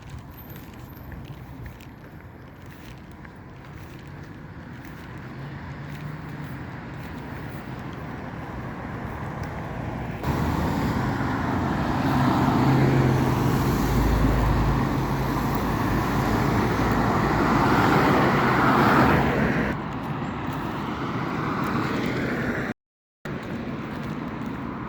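Road traffic: motor vehicles running past on a street, with engine hum and tyre noise. It builds gradually, jumps much louder about ten seconds in, eases again near twenty seconds, and cuts out for a moment near the end.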